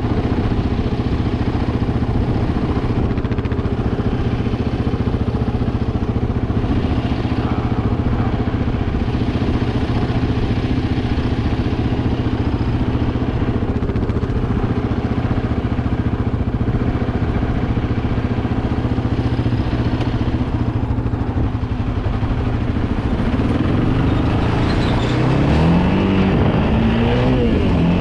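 Yamaha Raptor 700R's single-cylinder four-stroke engine running at a steady pace, then climbing in pitch in steps as it accelerates near the end.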